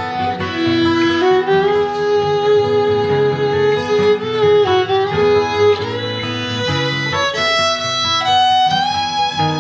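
Violin playing a slow melody of long held notes with slides between them, over acoustic guitar accompaniment.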